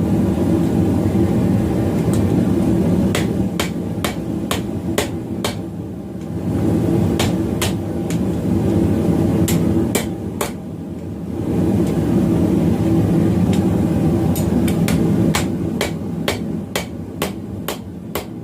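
Blacksmith's hammer striking steel round bar on an anvil in sharp, ringing blows at uneven spacing, coming quicker near the end. Under the blows runs a loud, steady rushing noise that drops away twice and comes back.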